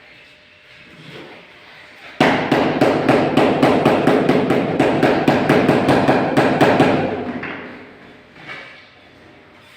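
Rapid hammering, about four sharp strikes a second, typical of tapping tiles down into their bed during tile laying; it starts suddenly about two seconds in and fades out around seven seconds.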